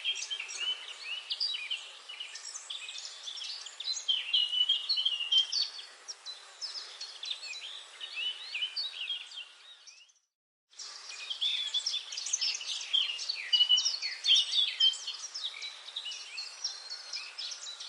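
Dense chorus of many songbirds chirping and trilling in a forest. The sound cuts out completely for under a second about ten seconds in, then the chorus resumes.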